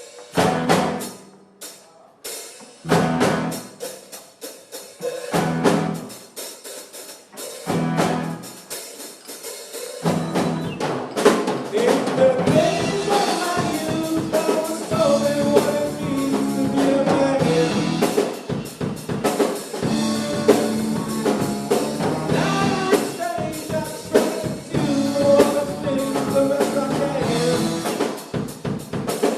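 Live rock band with drum kit: four loud chord-and-drum hits about two and a half seconds apart, each ringing out, then the full band kicks in with singing about ten seconds in.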